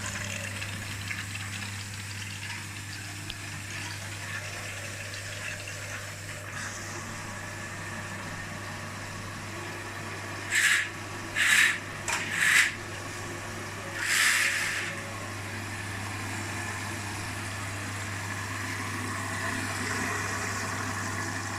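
Washing machines running a quick program's rinse phase: a steady low hum with water running in through the detergent drawer. About halfway through come four short hissing spurts.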